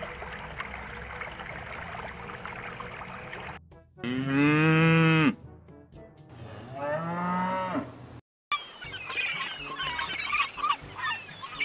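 A cow mooing twice, a long loud moo followed by a shorter one, after a few seconds of water splashing as a crowd of koi feed at the surface. Near the end, a busy chatter of short, higher animal calls.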